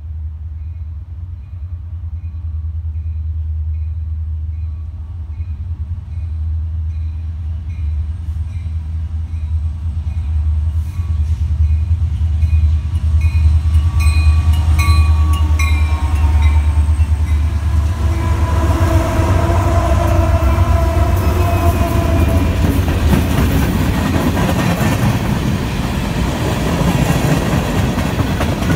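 Freight train led by Union Pacific diesel locomotives approaching and rumbling past, followed by freight cars rolling by on the rails. The sound builds as the locomotives draw near, then stays loud as the string of flatcars and tank cars goes past.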